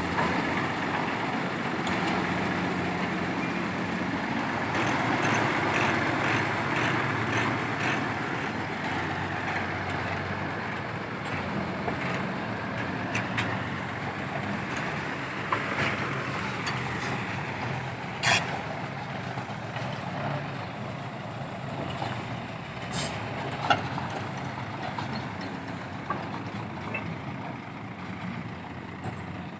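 Heavy diesel machinery running steadily, as a truck engine or a piling rig's engine, with two short, sharp, hissing clicks in the second half.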